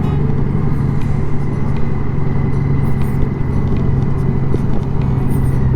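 Honda Gold Wing's flat-six engine running at a steady speed while riding, with a steady low hum and road rumble.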